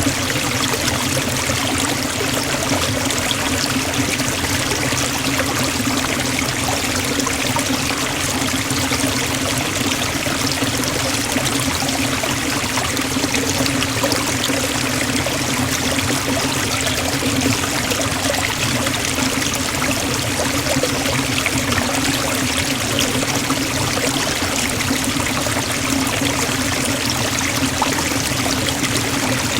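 Waterfall splashing steadily into a forest stream, a constant rushing of water with no breaks or changes.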